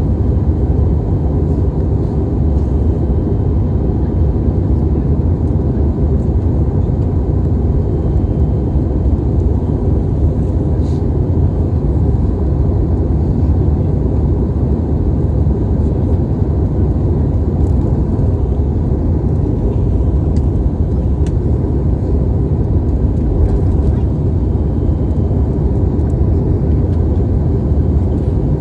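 Steady low roar inside an airliner cabin in flight: engine and airflow noise, with a few faint clicks.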